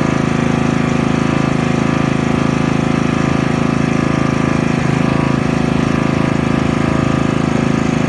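Small Honda petrol engine of a sugarcane juice machine running steadily with a fast, even pulse.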